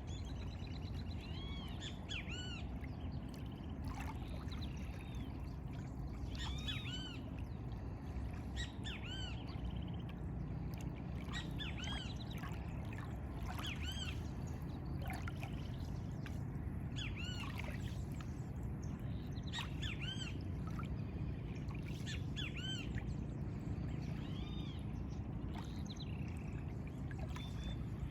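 Birds calling again and again in short arched chirps, several a few seconds apart, over a steady low wash of lagoon water.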